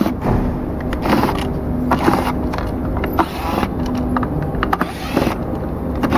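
Short clicks and scrapes of a screwdriver and plastic parts as the self-balancing scooter's cover screws are taken out, heard several times over a steady low rumble.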